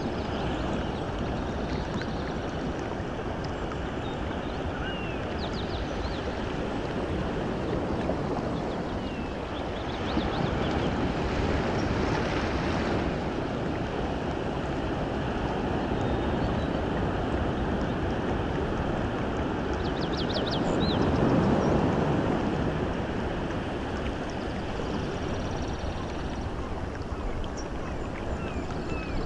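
Steady rush of water, swelling louder about a third of the way in and again about two-thirds in, with faint short bird calls above it now and then.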